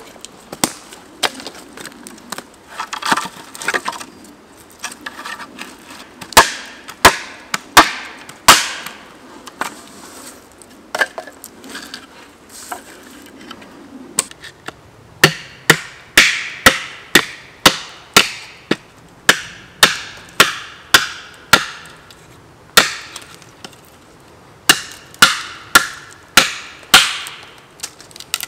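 Wood being chopped: sharp, repeated strikes into wood, scattered at first, then in a steady run of about two a second through the second half.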